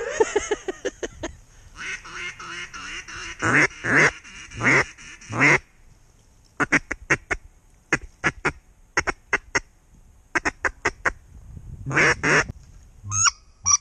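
Mallard-style duck quacking: a quick run of quacks at the start, several long loud quacks a few seconds in, then a string of short clipped quacks and a few sharper calls near the end.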